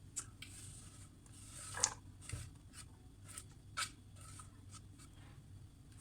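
Scattered short scrapes and clicks of kitchen utensils being handled during food preparation, about ten in all. The loudest comes about two seconds in and another near four seconds.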